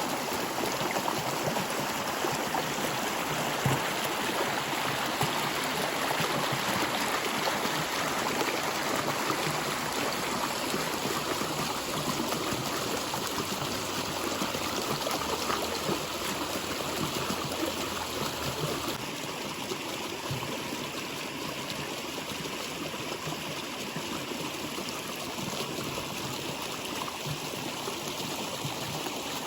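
A stream of water flowing and trickling steadily, a little quieter in the second half.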